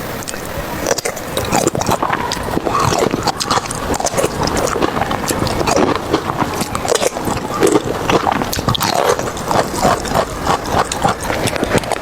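A steady run of irregular scrapes and clicks.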